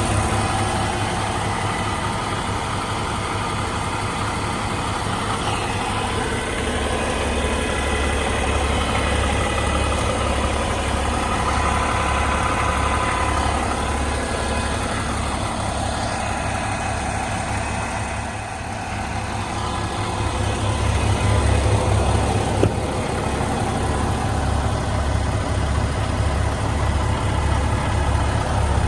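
Cummins X15 inline-six diesel in an International HX620 truck idling with a steady low throb, a little louder about two-thirds of the way in.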